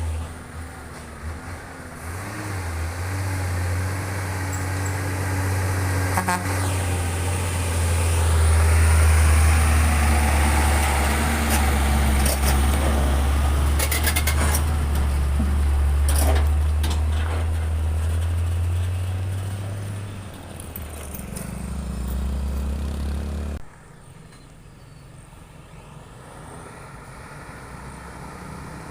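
Heavy truck engine running, its low drone swelling to its loudest through the middle and then fading. A few sharp knocks are heard along the way. The sound cuts off abruptly about three-quarters through, leaving a quieter engine hum.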